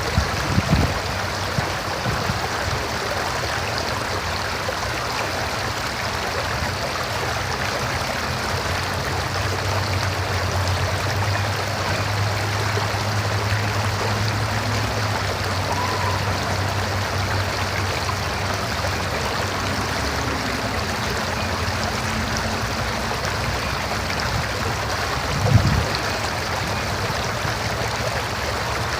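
River flowing, a steady, even rush of water. A brief low thump comes about three-quarters of the way through.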